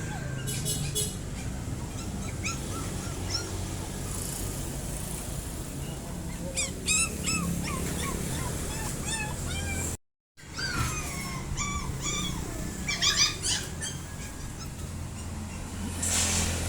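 Caged animals calling: many short high-pitched yelps and chirps that sweep up and down in pitch, over a steady background hum, with a brief dropout to silence about ten seconds in.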